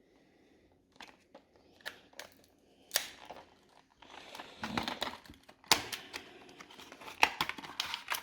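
Packaging of a small NVMe SSD being opened by hand: crinkling and tearing with scattered sharp clicks, sparse at first and busier from about halfway.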